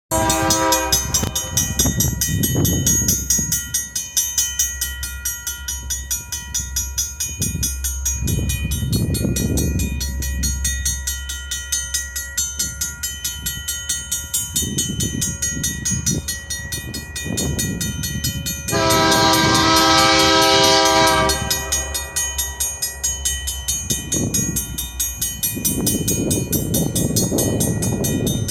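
Train rolling past with a steady rumble and rhythmic wheel clacking. Its horn sounds briefly at the start, then once more in one loud blast of about two and a half seconds, a little past the middle.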